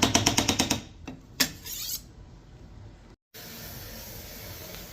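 A rapid, even run of mechanical ratcheting clicks, about ten a second, lasting about a second, then a single click. After a cut, a faint steady hiss.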